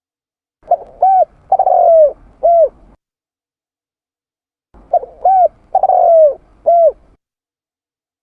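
Spotted dove (tekukur) cooing its four-note song twice: two short coos, a longer coo falling in pitch, then a short final coo. It is a lure call, played to attract wild doves.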